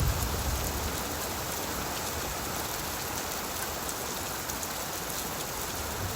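Steady rain falling on leaves, an even hiss with scattered drops ticking; a low rumble of thunder dies away just at the start.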